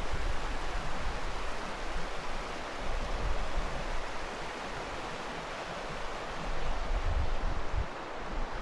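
Steady rushing noise with wind buffeting the microphone in uneven low rumbles, strongest about seven seconds in.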